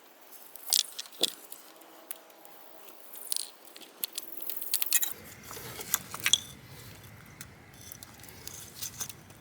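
Scattered light clicks and rattles of hands working among the engine's ignition coils and their connectors, with a faint low rumble coming in about halfway.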